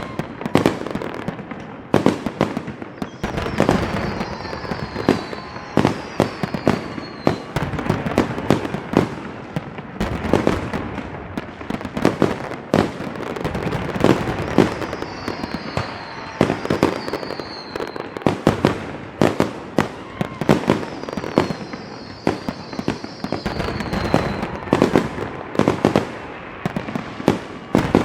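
Fireworks going off in a dense barrage, sharp bangs several a second with no pause. High whistles falling slightly in pitch come in over them a number of times.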